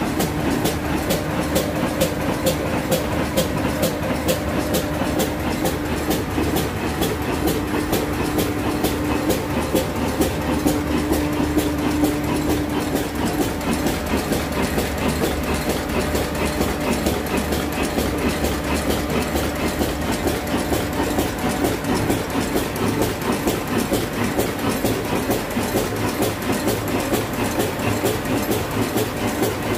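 Old stationary diesel engine running steadily, its exhaust and knock beating in an even, regular rhythm.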